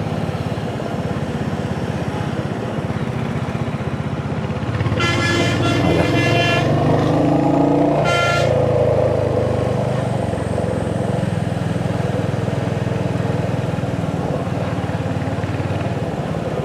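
Royal Enfield Hunter 350's single-cylinder engine running under way, with road and wind noise. A vehicle horn honks in several short toots about five seconds in, then gives one more brief toot a little later, while the overall sound swells for a few seconds.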